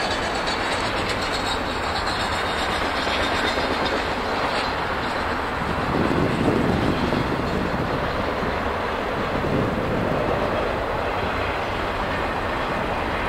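Freight train of autorack and double-stack container cars rolling past: a steady, continuous noise of steel wheels running on the rails.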